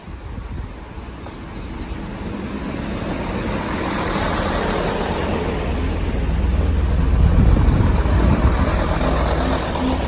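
A train approaching and passing close by, its rumble building steadily to a peak about three-quarters of the way through, then easing slightly.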